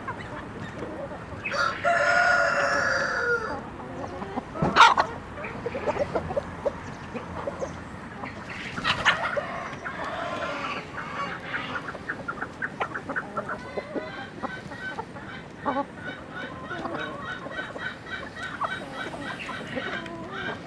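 Chickens clucking on a farm, with a rooster crowing once, about two seconds long, near the start. A sharp knock comes about five seconds in, and later a long run of quick, short, repeated clucks.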